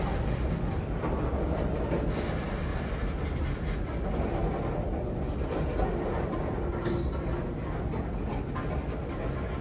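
Wheeling & Lake Erie freight train's hopper cars rolling across a steel girder trestle: a steady rumble of wheels on the bridge.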